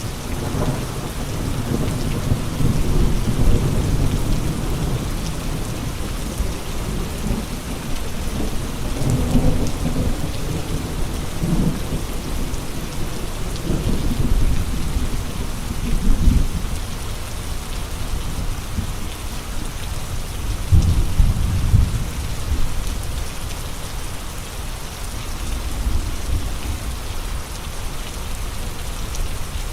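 Steady rain with gusty wind, broken four times by louder low rumbling surges that swell and fade.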